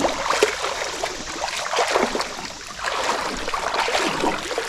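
Water splashing and sloshing in irregular strokes as a person wades through a creek.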